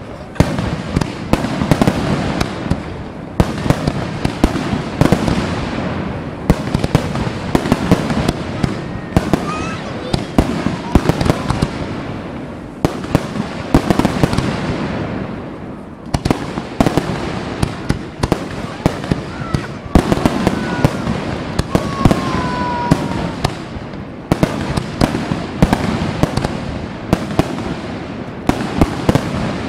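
Fireworks display: aerial shells launching and bursting in rapid succession, a dense, unbroken run of loud bangs and crackles.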